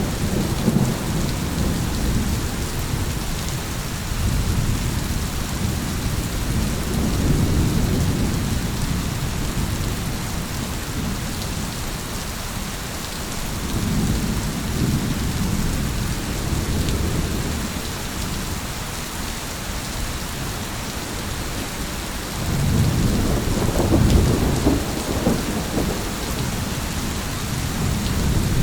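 Steady heavy rain with rolling thunder: low rumbles swell and fade several times, the loudest near the end.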